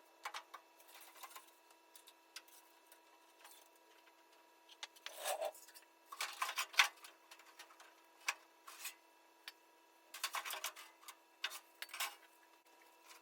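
Scattered clicks, clanks and short rattling scrapes of tools and metal body parts being handled, in irregular clusters, over a faint steady hum.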